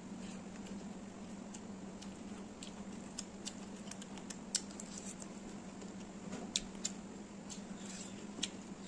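Mouth sounds of a person eating rice and chicken by hand: scattered small wet clicks and smacks of chewing, the loudest about halfway through and again a little later, over a steady low hum.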